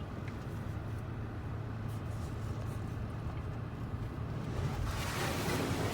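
Steady low hum of a vehicle idling in an automatic car wash bay, with a rushing hiss that swells about five seconds in.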